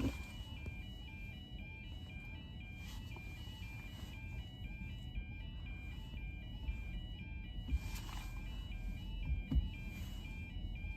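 Level crossing warning alarm sounding: a repeating electronic two-tone warble stepping up and down in pitch, which warns that a train is approaching. A low rumble runs underneath.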